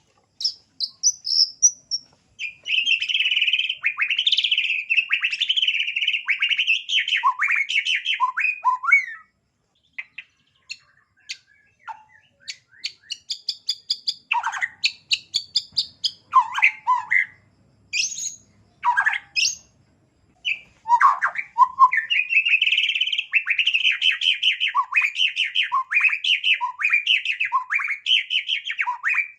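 Small songbird singing: two long runs of fast, dense chattering trills, with a middle stretch of sharp separate calls and short chirps.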